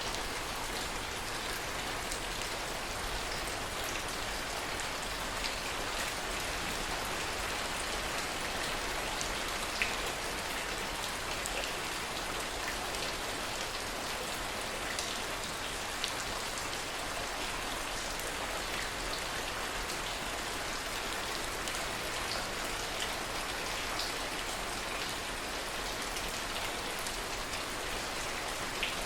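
Steady heavy rain falling, with scattered drop ticks among the hiss.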